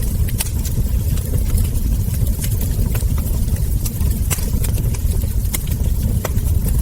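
Wood fire crackling: scattered sharp pops and snaps over a steady low rumble of burning logs.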